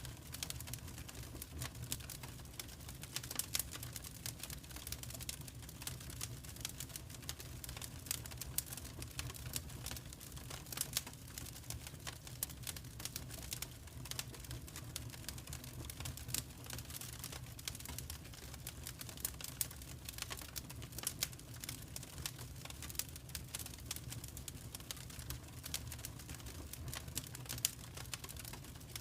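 Wood fire crackling in a fireplace: a dense, irregular run of small sharp pops and snaps over a steady low rumble of the flames.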